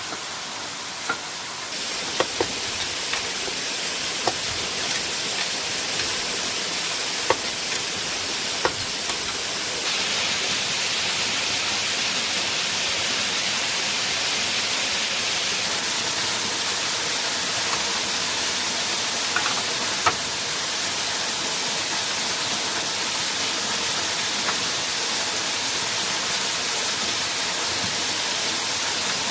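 Waterfall water rushing as a steady hiss, with a few scattered sharp knocks.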